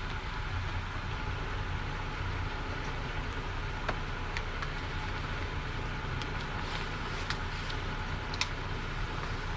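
Pouring rain as a steady hiss over a low hum, with scattered sharp taps of drops, most of them in the second half.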